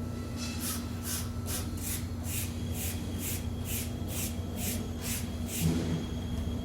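Hand saw cutting timber in even back-and-forth strokes, about two a second, over a steady low hum.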